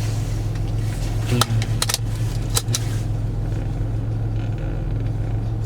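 Steady low drone of a car heard from inside the cabin, with a few sharp clicks and knocks between about one and a half and three seconds in.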